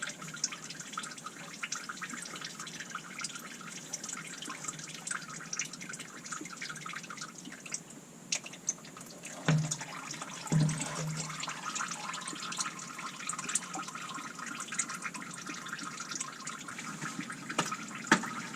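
Used motor oil trickling and dripping steadily into a catch pan, draining from the oil filter housing of a Ford 5.0 V8. Two dull knocks come about halfway through.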